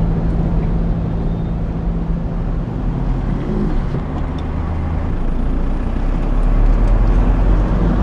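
A motor vehicle's engine running steadily with road noise. Its low hum shifts about five seconds in and grows louder near the end.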